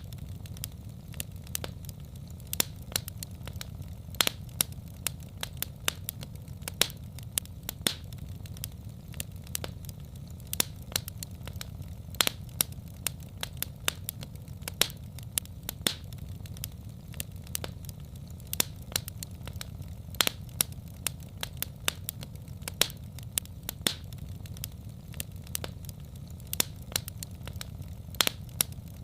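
Wood fire burning in a fireplace: sharp, irregular crackles and pops, several a second, over a steady low rumble.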